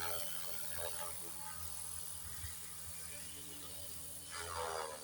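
Electric RC helicopter (SAB Goblin 380) motor and rotor blades running steadily with a high whine, then a falling whir near the end as the rotor head winds down.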